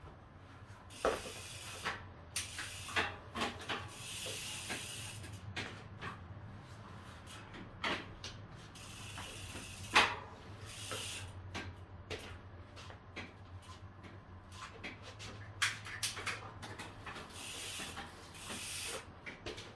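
Mountain bike's hydraulic disc brakes being tested on the spun wheel: ratcheting clicks from the hub and several brief hissing rubs as the pads grab the rotor, with no squeal, showing that the brake squeak has been cured.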